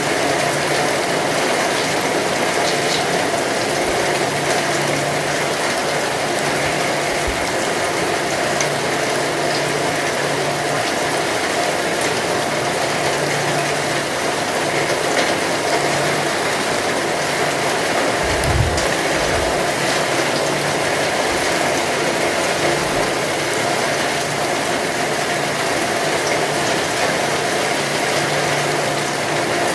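Heavy rain falling steadily, a dense even hiss, with a brief low thump about two-thirds of the way through.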